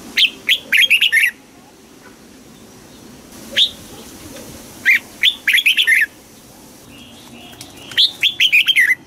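Red-whiskered bulbul singing: three short phrases of quick whistled notes, with a single note between the first two.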